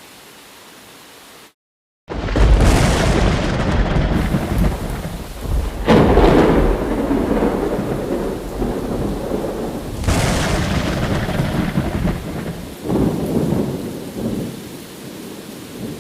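Thunderstorm: steady rain hiss, a brief cut to silence, then a loud thunder crash about two seconds in that rolls on with further surges, strongest around six and ten seconds, fading away near the end.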